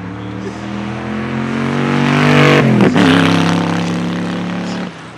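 Noble M600 Speedster's Yamaha-derived 4.4-litre twin-turbo V8 accelerating past, its note rising as it approaches and loudest about two and a half seconds in. The pitch then drops sharply as it goes by, and the engine note falls away abruptly near the end.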